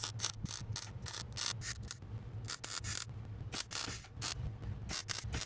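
Welding on a car body panel in short stitches: many quick bursts of crackling hiss, each a fraction of a second, with brief pauses between them, over a steady low electrical hum.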